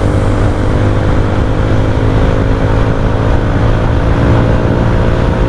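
Motorcycle with a full exhaust system and its dB killer removed, running loud at a steady cruise with road noise.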